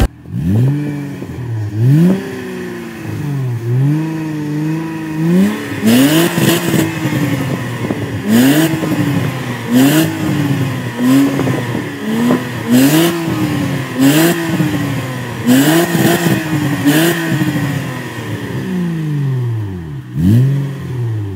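Hyundai Coupé's 2.7-litre V6 through a custom-made exhaust, revved in quick blips about once a second, each rising and falling back. A sharp crackle comes at the top of many of the revs. After a short lull there is one last rev near the end.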